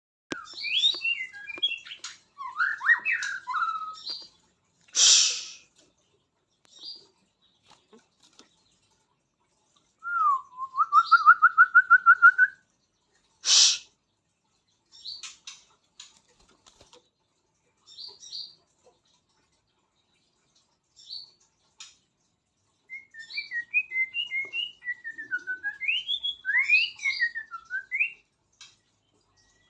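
White-rumped shama (murai batu) singing: varied clear whistled phrases, a fast run of repeated rising notes about ten seconds in, and a rapid burst of mixed notes near the end. Scattered short notes and two short harsh bursts come in the pauses between phrases.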